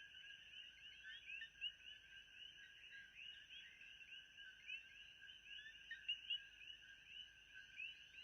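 Faint, dense chorus of many small animals chirping, with short overlapping chirps keeping up steadily.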